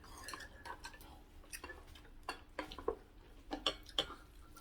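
Light, irregular clicks and taps of chopsticks against a bowl while bibimbap is mixed and eaten, about a dozen in all.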